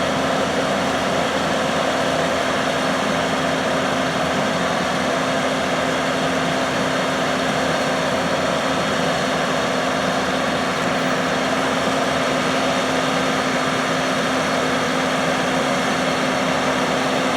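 A machine running steadily: an even drone with one constant tone and no change in speed.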